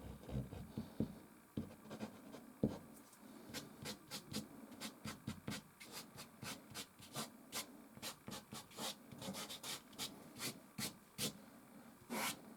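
Soft pastel stick scratching and rubbing on canvas: low rubbing at first, then a quick run of short strokes, about three a second, with one longer stroke near the end.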